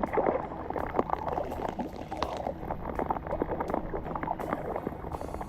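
Water splashing and sloshing, with many small irregular splashes over a steady watery rush.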